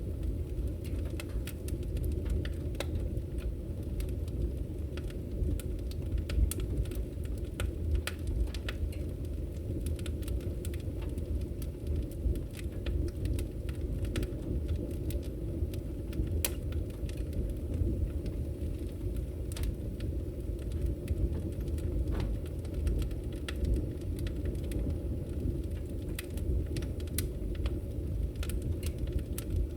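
Firewood burning in a steady fire, with a low rumble of flame and frequent irregular crackles and pops of the wood.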